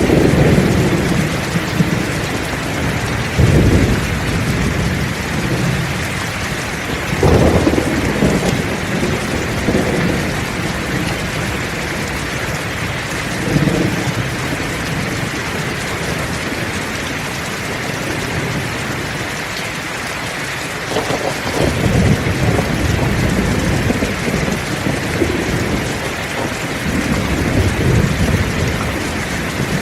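Heavy rain falling steadily, with rolls of thunder rumbling low several times through it: about three and a half seconds in, around seven to eight seconds, near fourteen seconds, and a longer roll from about twenty-one seconds on.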